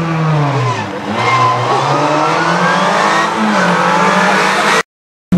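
Rally car engine revving hard: the pitch drops briefly about a second in, then climbs steadily as the car accelerates, with a gear change near three and a half seconds. The sound cuts off abruptly shortly before the end.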